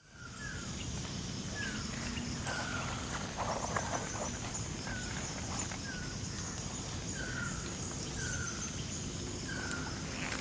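A bird repeating a short, falling whistled note every second or so, over a steady high-pitched drone of insects.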